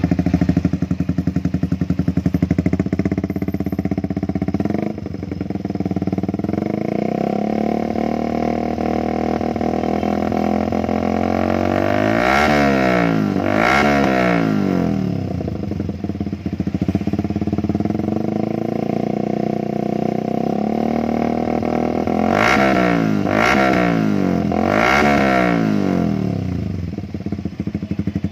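Yamaha Xabre 150's single-cylinder engine running through an Audey CR-T stainless full-system aftermarket exhaust. It idles steadily and is blipped in short revs, twice around the middle and three times near the end.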